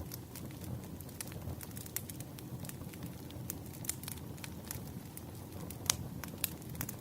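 Wood fire burning, with irregular sharp crackles and pops over a soft steady low hiss of the flames; one louder pop about six seconds in.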